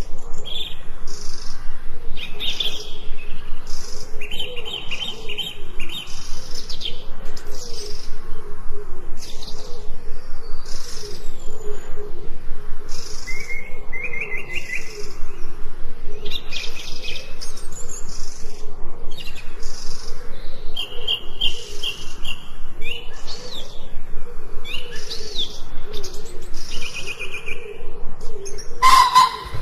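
Chorus of forest songbirds chirping and singing, with many overlapping short calls and fast trills. A brief sharp click cuts in near the end.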